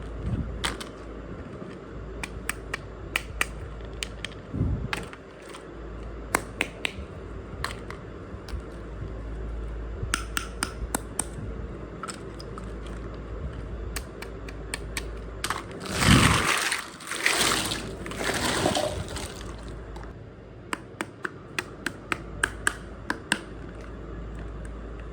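Small miniature toy kitchen pieces handled: scattered light clicks and taps as pieces are picked up and set down, with a louder stretch of rustling and scraping about two-thirds of the way through, over a low steady hum.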